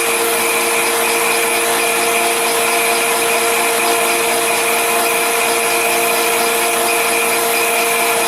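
Forced-air torpedo heater running: its motor and fan give a steady hum with a constant whine over a rushing hiss, unchanging throughout.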